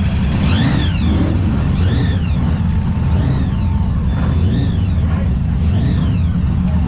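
Deep, steady rumble of vehicle engines, with a high whine that rises and falls about once a second.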